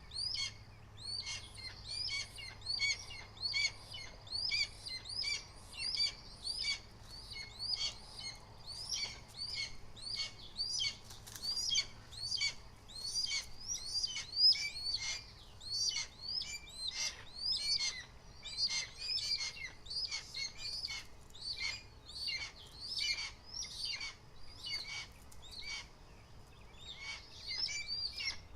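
Birds calling in a rapid, unbroken series of short, sharp notes that hook downward, about two a second.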